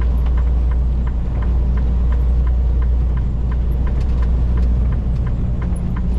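Semi truck driving on the highway, heard from inside the cab: a steady low engine and road drone. Faint short ticks repeat about three times a second over it.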